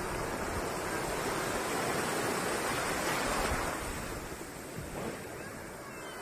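Sea surf rushing on the shore, a steady wash of breaking water that eases off after about four seconds.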